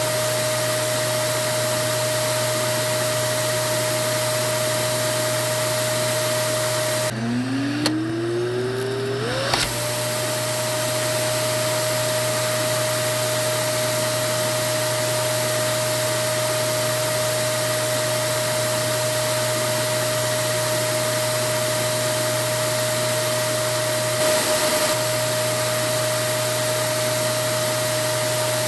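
Vacuum cleaner motor running steadily with a high whine over a rushing noise. About seven seconds in, the whine drops out briefly, then climbs back up to its steady pitch over a couple of seconds as the motor speeds up again.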